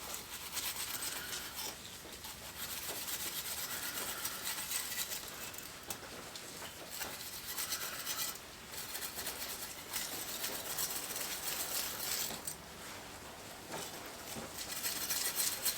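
Stainless steel scrubbing pad scrubbing a wet circular saw blade: a continuous, scratchy metal-on-metal rubbing that swells and fades with the strokes.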